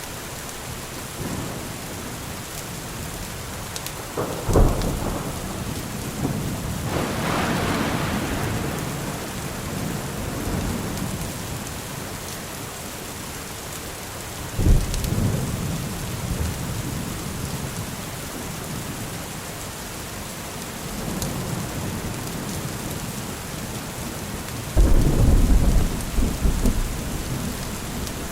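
Steady rain falling through a thunderstorm. Thunder claps sharply about four seconds in and rolls on for several seconds, claps again around fifteen seconds, and a long, loud rumble comes near the end.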